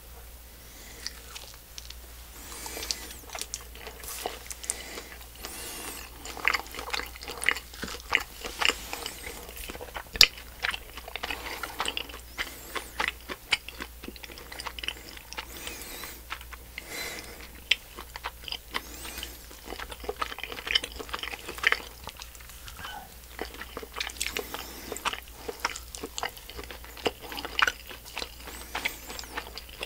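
Close-miked chewing and biting of tiny Popin Cookin candy hamburgers, full of short, sharp, irregular mouth clicks and crackles.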